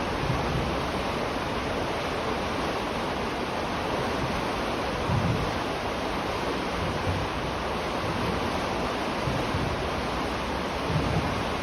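River water flowing in a steady, continuous rush, with a few brief low swells, the clearest about five seconds in and again near the end.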